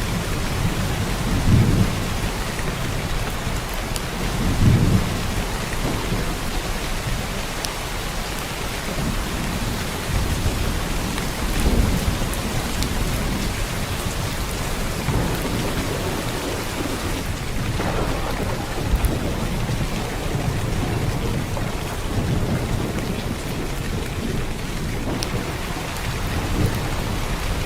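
Heavy rain pouring down in a steady, dense hiss, with a few brief low rumbles rising out of it now and then.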